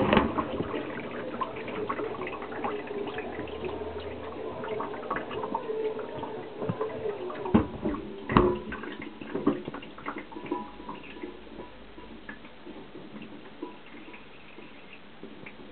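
Water inside an Indesit DSG 263EU dishwasher's tub: the spray noise dies away steadily, leaving scattered drips and taps. A louder splash or knock comes about eight seconds in.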